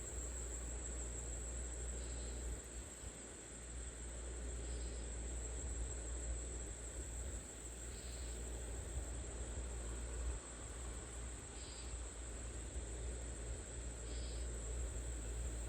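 Insects trilling steadily at a high pitch over a low rumble, with a brief faint chirp every two to three seconds.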